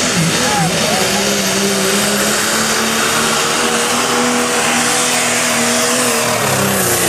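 Diesel pickup truck engine running hard at high revs under load while pulling a weight sled, with a steady tone and a heavy rush of noise. Near the end the revs drop.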